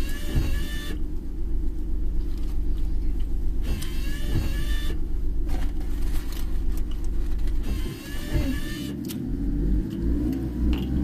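Car cabin with a steady low engine and road rumble. Three times, about every three to four seconds, a windshield wiper sweeps across the wet glass with a squeaky swish. Near the end the rumble dips and changes as the car slows.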